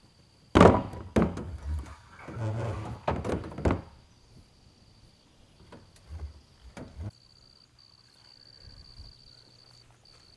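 A run of heavy thunks and knocks, the loudest about half a second in, then a few lighter knocks between six and seven seconds. Crickets chirp steadily underneath.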